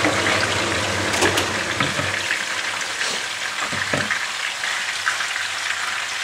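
Chopped onion, carrot and pepper with rabbit pieces sizzling steadily in a frying pan. A few short knocks come from a utensil against the pan as the food is scraped in from a bowl and stirred with a silicone spatula.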